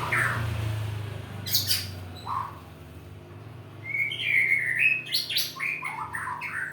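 White-rumped shama (murai batu) singing in separate bursts: a short rising whistle, a few sharp calls, then from about four seconds in a fuller run of whistled, falling phrases mixed with sharp notes. Keepers read this kind of song as the bird starting to get excited and fired up.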